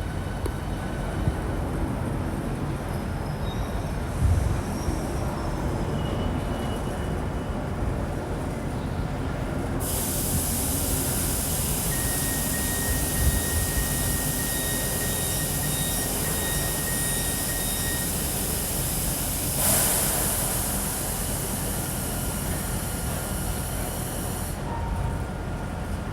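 Train at the station: a steady low rumble, joined about ten seconds in by a loud hiss that starts abruptly and stops just as suddenly some fourteen seconds later. A faint steady whine runs through part of the hiss.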